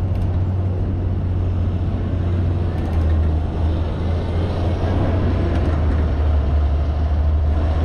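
Steady low wind rumble and road noise on a bicycle-mounted camera's microphone while riding in traffic.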